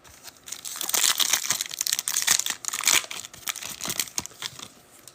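A trading card pack's plastic wrapper being torn open and crinkled in the hands: a dense run of crackling, loudest in the first couple of seconds, then thinning out.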